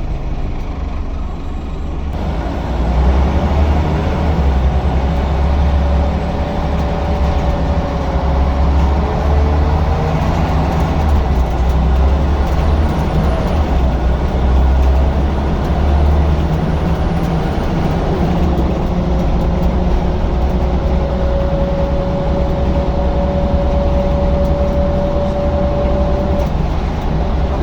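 Scania L94UB single-decker bus running under way: a steady low diesel rumble that gets louder about two seconds in, as if pulling away. A whining tone rises briefly in the middle and holds steady near the end.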